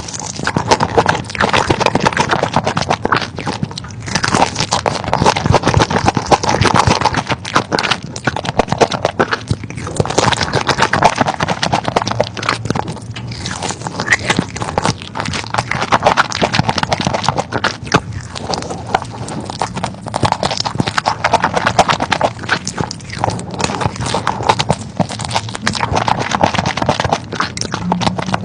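Close-miked chewing and crunching while eating chicken: a continuous run of wet, crackling bites and chews.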